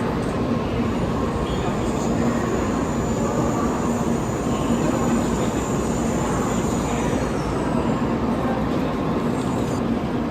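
Shinkansen bullet train running at speed, heard from inside the carriage: a steady rushing noise with a low hum and a faint high whine.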